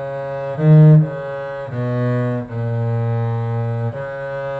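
Cello bowing a slow melodic phrase in F sharp major: about six sustained notes in a row. The loudest is a short, higher note about half a second in, and the phrase closes on a long held note.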